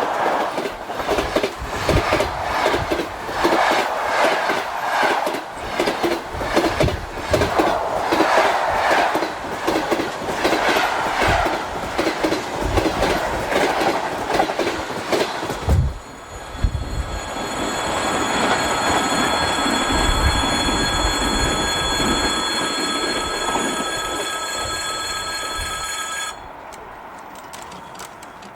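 A train passing close by: for about the first sixteen seconds its wheels clack steadily over the rail joints. Then it rolls more smoothly with a steady high-pitched whine, which cuts off about two seconds before the end and leaves a quieter rumble.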